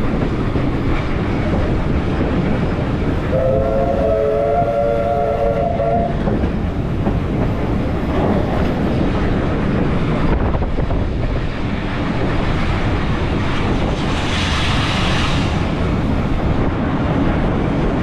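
A steam train running along the track, heard from aboard with steady rumble and wheel clatter. Its steam whistle sounds once, a chord of several tones lasting about three seconds, starting about three seconds in; a short hiss follows about fourteen seconds in.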